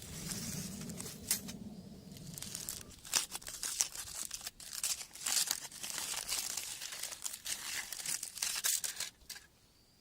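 Aluminium foil crinkling and tearing in irregular bursts as it is peeled off a fire-baked sweet potato; the handling stops about nine seconds in.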